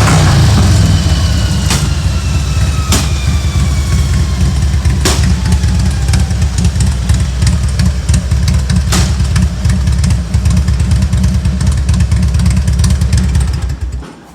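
2000 Harley-Davidson Road King's carbureted Twin Cam 88 V-twin idling steadily as it settles from a rev, with a few sharp clicks. The engine cuts off near the end.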